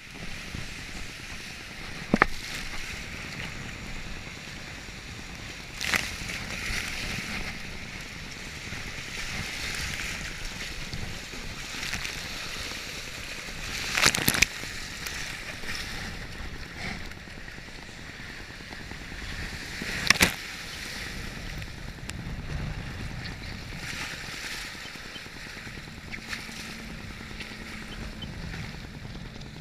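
Jet ski out on open water: a steady rush of water and wind noise with no clear engine note. A few sharp splashes or knocks break through, the loudest about a third and two-thirds of the way in.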